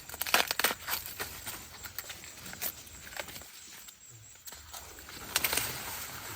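Irregular sharp snaps and crackles, bunched at the start and again near the end, with a quieter stretch in the middle.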